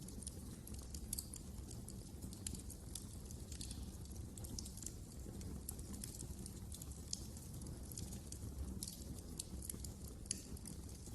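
Wood fire crackling: many small, quick snaps at irregular intervals over a low, steady rumble.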